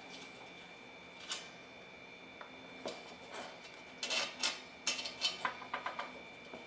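Light metallic clinks and clatter of small metal parts being handled: a couple of single taps, then a quick run of clinks over the last few seconds, over a faint steady high whine.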